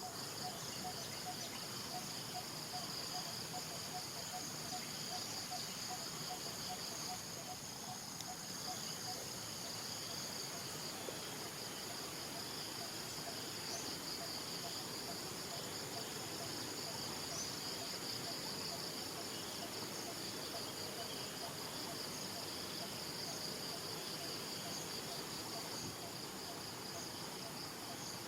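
Insect chorus trilling steadily in high, pulsing bands. A faint low note repeats in a steady series through roughly the first third, then stops.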